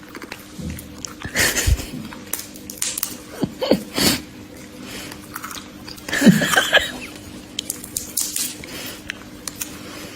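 Scattered clinks and clatters, like dishes being handled, over a steady low hum.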